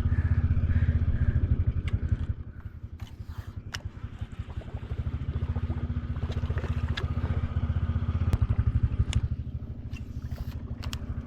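Boat's outboard engine running with a low, evenly pulsing rumble. It eases off about two seconds in and picks up again a few seconds later. A few sharp light clicks sound over it.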